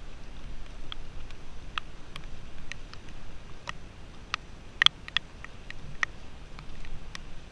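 Raindrops ticking irregularly, a dozen or more sharp drops with one louder tap near the two-thirds mark, over a low steady rumble.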